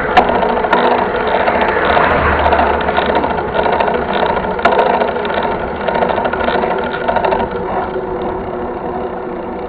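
Mountain bike rolling over rough trail: a loud, steady rattling and rushing noise with sharp clicks and knocks, the strongest about a fifth of a second in and again near five seconds in. It eases a little after about seven seconds.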